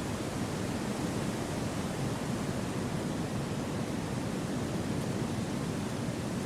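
Steady wind rushing through forest trees, an even hiss with no distinct gusts.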